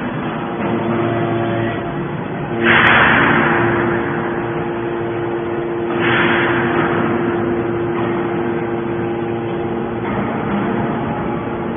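Hydraulic scrap metal baler running, a steady pump hum under machine noise, with two loud rushing surges about three seconds apart that each fade over a second or so.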